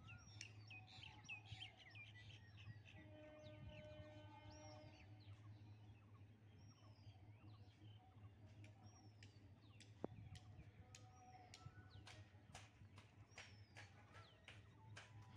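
Faint birdsong: short, hooked whistled calls repeated every second or two, with scattered light clicks over a quiet outdoor background.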